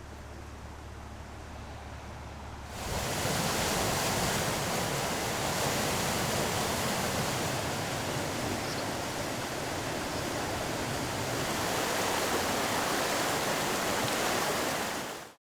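Loud, steady rush of flowing floodwater, starting suddenly about three seconds in and cutting off abruptly near the end. Before it, a quieter hiss over a low steady engine hum.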